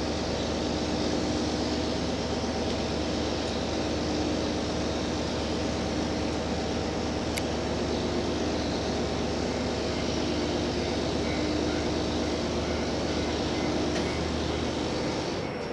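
Cabin running sound of a JR Hokkaido H100 diesel-electric railcar: a steady rumble of wheels on rail mixed with the even hum of its engine-generator and traction motors. There is one sharp click about halfway through, and near the end the sound drops and a new steady tone comes in.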